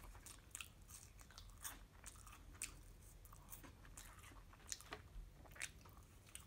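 Faint chewing of French fries, with soft, irregular mouth clicks and smacks scattered throughout.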